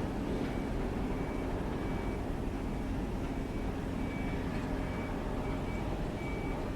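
Aircraft engines running with a steady low rumble, with a faint high beep repeating in short, uneven pulses over it.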